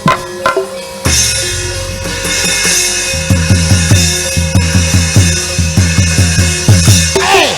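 Live theatre ensemble music led by drums: a few drum strokes, then a cymbal crash about a second in that rings on. From about three seconds in come fast low drum beats, roughly three or four a second, under the cymbal wash.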